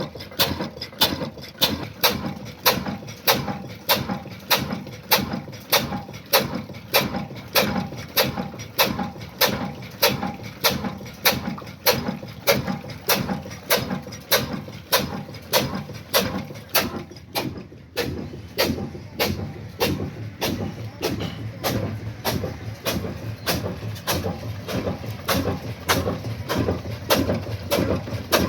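Old Ruston Hornsby diesel engine running at a steady speed, a rapid, even rhythm of sharp beats, with a slightly heavier low note in the last few seconds.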